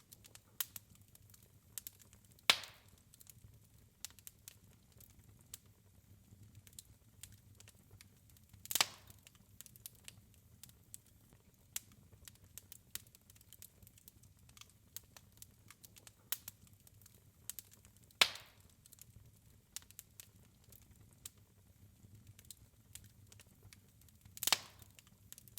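Wood fire crackling in a fireplace: a steady scatter of small sharp crackles, with four louder pops spread through.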